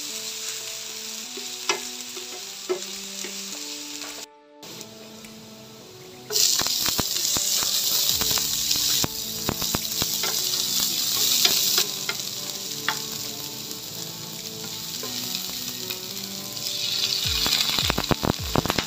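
Chopped ginger, garlic and onion sizzling in hot oil in a nonstick frying pan as a spatula stirs and scrapes, with scattered light clicks of the spatula on the pan. The sizzle turns louder and brighter about six seconds in, and flares again with busy stirring near the end as shrimp paste goes into the pan.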